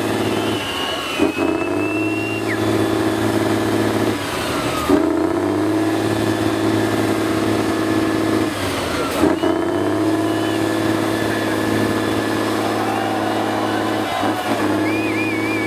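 Competition truck's engine running hard on an off-road trial course, its steady note breaking and dropping briefly about four times.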